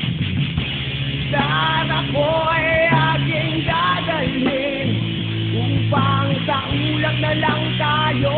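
Music from a guitar-backed rock band arrangement of a song. A steady bass and chord backing plays, and a pitched melody line with bending notes comes in after about a second and a half, with no words sung.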